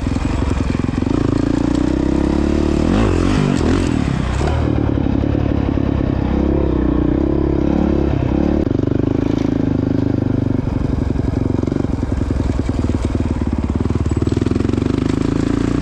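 Honda CRF450X's single-cylinder four-stroke dirt-bike engine running while being ridden, its revs rising and falling several times in the first half and then holding steadier.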